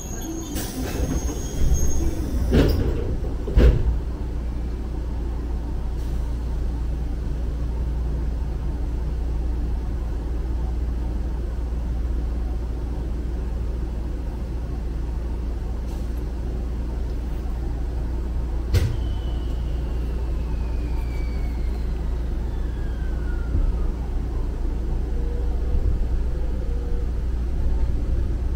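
Inside a Yoro Railway electric train car standing at a station: a steady low hum and rumble, with a few loud knocks in the first few seconds. A little past the middle a sharp click is followed by a whine that slides down in pitch over several seconds.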